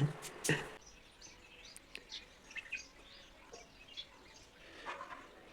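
A short voice sound and a sharp knock at the very start, then faint, scattered bird chirps, with one louder call near the end.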